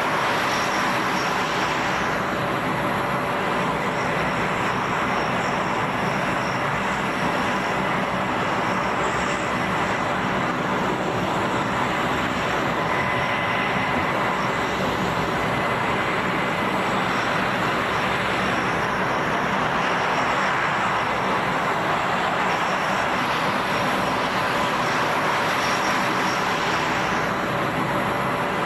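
A-10 Thunderbolt II's twin TF34 turbofan engines running, a steady loud rush with a high whine held on a few fixed pitches.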